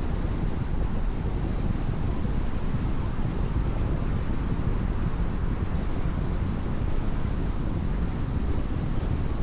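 Car driving on a rain-wet expressway: a steady low rumble of road and wind noise with the hiss of tyres on wet pavement, unchanging throughout.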